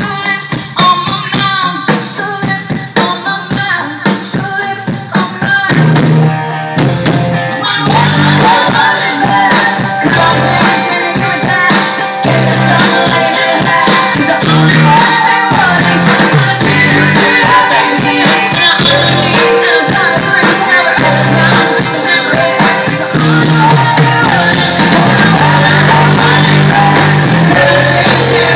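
Live band music with a singer at a sound check, with drums and singing. It starts sparse and choppy, and the full band comes in about eight seconds in.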